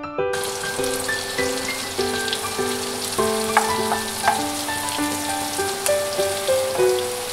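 Minced garlic and green beans sizzling steadily in hot oil and butter in a nonstick frying pan as the garlic browns. The sizzle starts suddenly just after the beginning, and two sharp clicks of the spatula against the pan come about three and a half and four seconds in.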